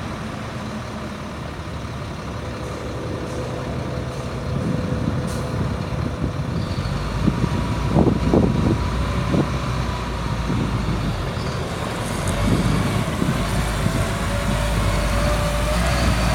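Water truck's Cat C7 diesel engine running steadily under an even hiss. Its pitch climbs slowly near the end as it speeds up.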